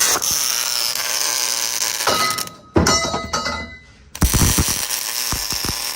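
Welder tacking steel roll cage tubing: the arc crackles and hisses in three bursts, starting and stopping abruptly, with short breaks a little over two seconds in and about four seconds in.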